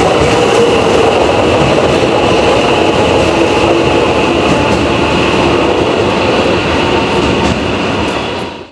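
JR West 521 series electric train pulling out and rolling past: a steady rumble of wheels on rail with faint clicks from the rail joints. The sound cuts off suddenly at the very end.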